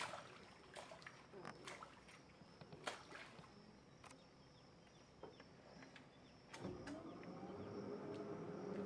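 Faint scattered clicks, then about two-thirds of the way through the electric motor of a solar-powered tour boat starts up: a rising whine that settles into a steady hum, getting louder.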